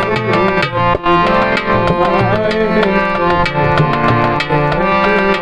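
Instrumental interlude of a Hindi film song: tabla playing quick, even strokes under a sustained melodic instrument line.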